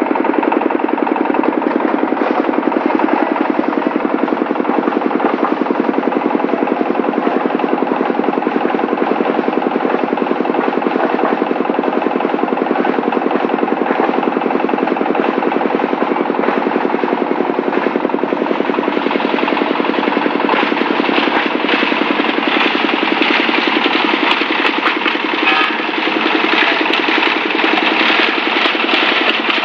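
Diesel-driven plastic bottle shredder running steadily at full speed, its engine pulsing evenly under a dense mechanical clatter, with the recording heavily distorted. The clatter grows busier and more crackly in the last third, as plastic is chewed by the steel blades.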